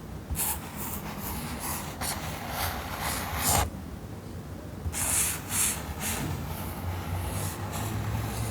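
Handling noises from crafting work: two clusters of short rustling, scraping sounds, one in the first half and one shortly after the middle, over a faint steady hum.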